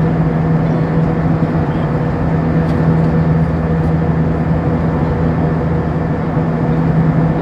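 Airbus A320's cabin noise in flight: steady engine and airflow noise heard from inside the cabin, with a strong, steady low hum and a fainter higher tone held throughout.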